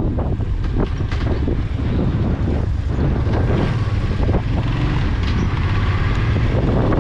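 Wind buffeting a helmet-mounted microphone on a moving motorcycle, a steady low rumble, with the motorcycle's running engine and road noise beneath it.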